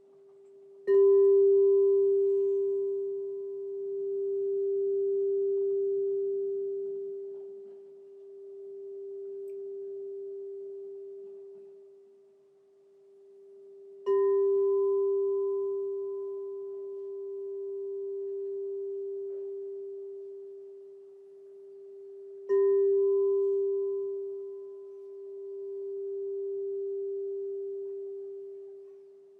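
Crystal singing bowl struck three times, each strike setting off a long, pure ringing tone with a faint higher overtone. Between strikes the tone swells and fades in slow waves as it rings on.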